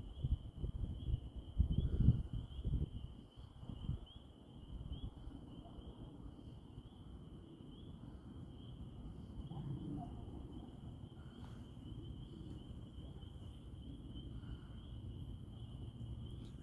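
Crickets trilling in a steady, unbroken chorus. Low, uneven rumbling sits under it for the first few seconds.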